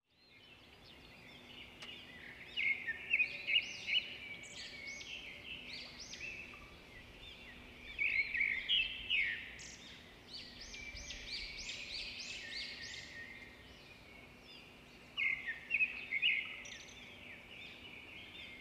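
Birds chirping: many short, quick overlapping calls that come in three busier bursts, over a faint steady hum.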